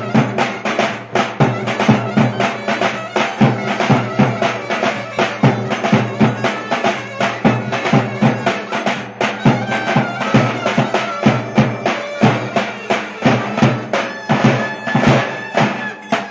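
Turkish folk dance tune (oyun havası) from the Ereğli–Alaplı region: a reedy wind melody over a steady low drone and a fast, even drum beat. The music stops right at the end.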